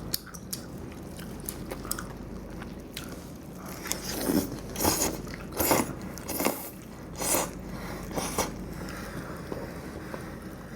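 Close-up eating sounds: someone chewing and biting food, with small wet clicks, then about five louder, noisy mouthfuls in the middle.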